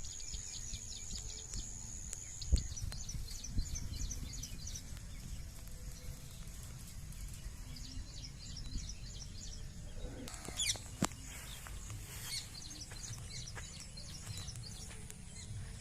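Small birds chirping in quick repeated series over a steady low rumble, with a few sharp knocks.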